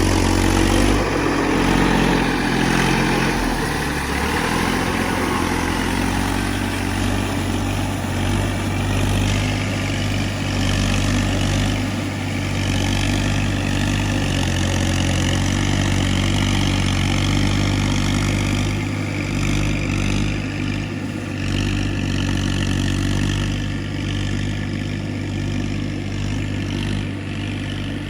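TAFE tractor's diesel engine running under load while it drives a rotavator through paddy mud. The engine speed shifts a few times in the first four seconds, then holds steady.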